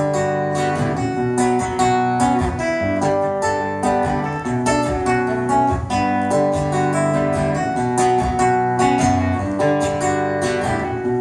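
Instrumental break of a rock ballad: acoustic guitar strumming and picking chords under a sustained melody line, with no vocals.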